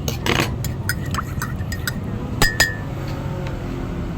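Several sharp clinks of utensils against dishes and glass during a meal, one about two and a half seconds in ringing briefly, over a steady low background hum.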